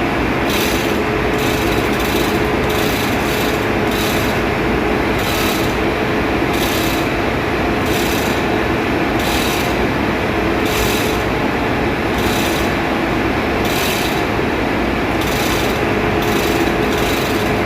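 Steady engine-room machinery drone with a held hum, overlaid by rasping strokes at roughly one a second, like hand scraping or brushing of metal.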